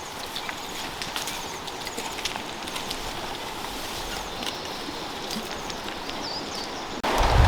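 Outdoor background: an even hiss with scattered small clicks and a few faint high bird-like chirps. About seven seconds in it cuts abruptly to a much louder low rumble.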